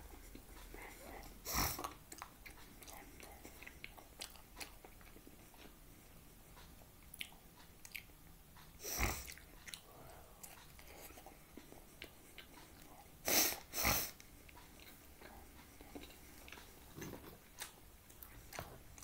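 A person biting into and chewing a slice of pizza close to the microphone: soft, wet mouth sounds with scattered small clicks and a few louder brief sounds, two of them in quick succession about two-thirds of the way in.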